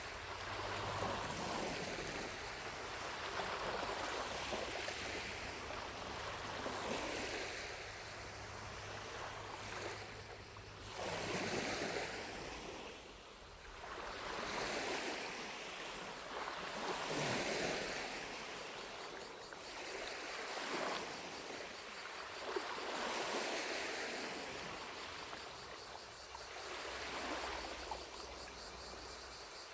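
Small lake waves lapping onto the shore, a soft wash that swells and fades every few seconds. From about two-thirds of the way in, a faint high rapid pulsing of distant cicadas joins it.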